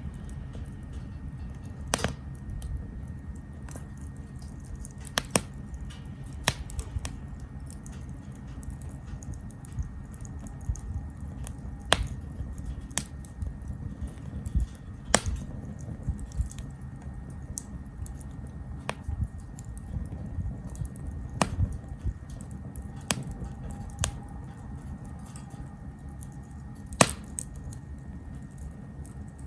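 Small wood fire in a Captain Stag Kamado Smart Grill B6 crackling, with sharp irregular pops every few seconds over a low steady rumble of burning; the loudest pop comes near the end.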